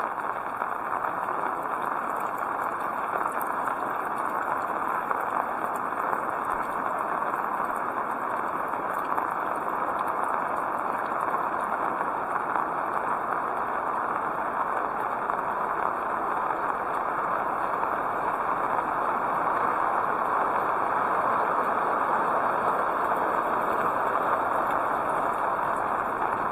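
Heavy rain falling, a steady dense hiss with many fine drop ticks, growing a little louder in the second half.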